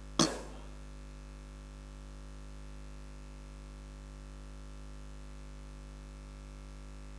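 Steady electrical mains hum with a ladder of overtones, with a short noise just after the start.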